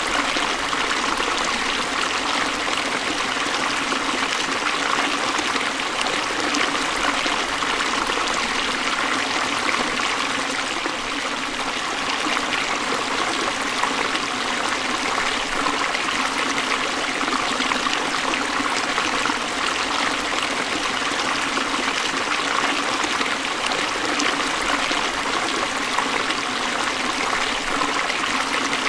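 Forest stream flowing steadily over rocks, a constant rush of water with a trickling edge.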